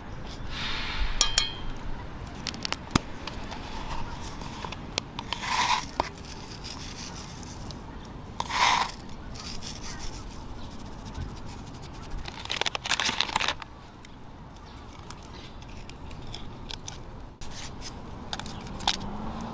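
Intermittent handling sounds: short scrapes or rustles a few seconds apart, with scattered sharp clicks.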